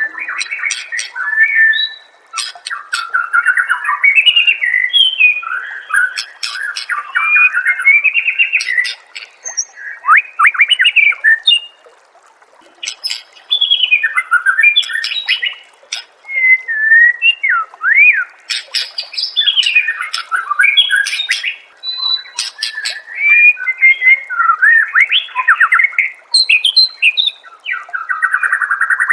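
White-rumped shama (murai batu) singing a long, varied song of rapid whistled phrases that sweep up and down, broken by sharp clicks, with a brief pause about twelve seconds in.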